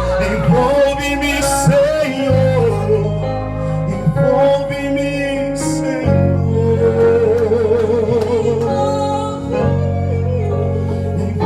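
A singer with vibrato over sustained low chords that change every few seconds.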